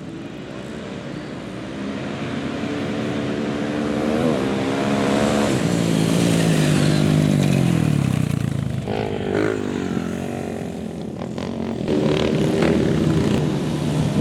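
Café racer motorcycle engine passing by: the note grows louder, then drops in pitch as the bike goes past about seven seconds in, and another engine comes up loudly near the end.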